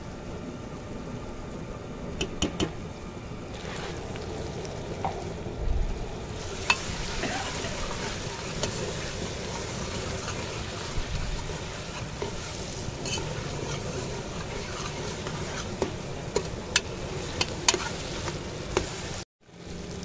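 Onions and tomatoes frying and sizzling in an aluminium pot over a fire, the sizzle growing stronger about six seconds in, while a metal spoon stirs them and clinks against the pot several times. The sound drops out briefly just before the end.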